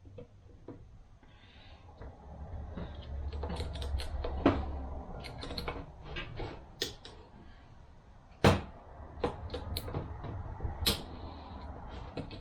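Irregular clicks, taps and knocks of metal transmission parts being handled and set down on a workbench, with a sharper knock about halfway through.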